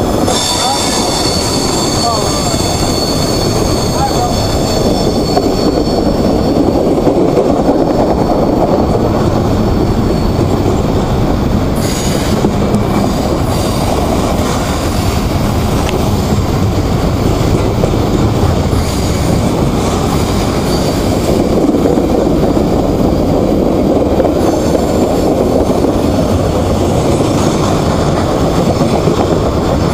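Freight train cars rolling past close by: a loud, steady rumble and clatter of steel wheels on rail. For about the first ten seconds a high-pitched metallic squeal from the running gear rides on top.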